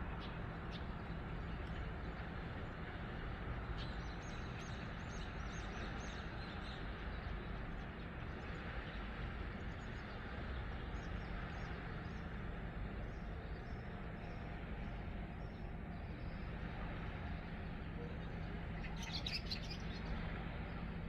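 Birds chirping in short high calls over a steady rushing background with a low hum, with a brighter flurry of chirps near the end.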